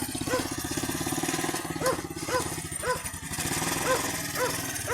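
Small engine of a homemade tractor running steadily, with a dog barking repeatedly over it, several short barks.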